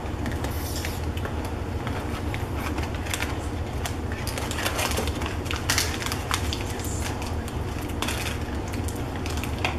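Crunching of freeze-dried Lucky Charms marshmallows being chewed: irregular crisp cracks and crackles, with crinkling of a plastic candy bag being handled.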